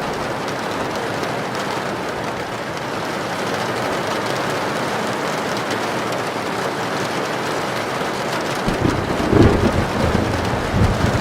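Heavy rain drumming steadily on a tin roof. About nine seconds in, a short low rumble of thunder swells and fades.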